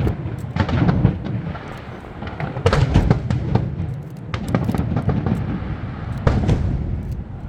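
Aerial fireworks shells bursting in quick succession, sharp cracks over a continuous low rumble. The loudest clusters of bursts come about three seconds in and again near six seconds.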